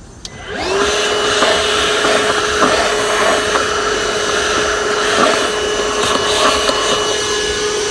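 Milwaukee M18 2-gallon cordless wet-dry shop vacuum switched on, its motor spinning up about half a second in and then running steadily with a hiss of airflow, sucking up spilled tea.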